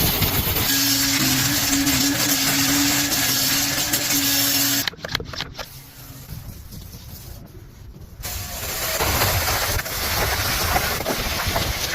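Motor-driven cleaning equipment running: a steady hum under a loud hiss that cuts off suddenly about five seconds in, a quieter stretch, then loud hiss again from about eight seconds in.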